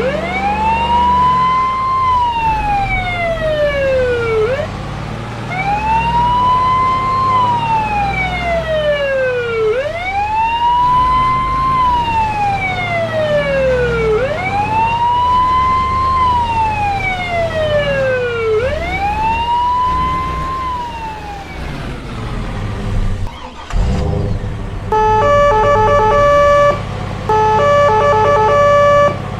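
Emergency-vehicle siren wailing, a slow rise and fall in pitch repeating about every four and a half seconds. About 24 seconds in it stops and gives way to a run of steady on-off beeping tones.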